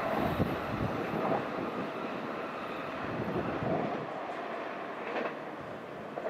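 Electric train running past on the rails, its rumble slowly fading as it draws away.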